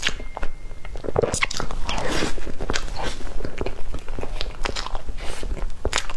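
Close-miked wet chewing of soft cream cake: a dense run of quick clicking, smacking mouth sounds.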